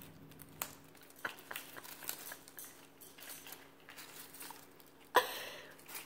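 Moustached parakeet picking at and shredding dried roses: faint scattered clicks and light rustling, with a sudden louder rustle about five seconds in.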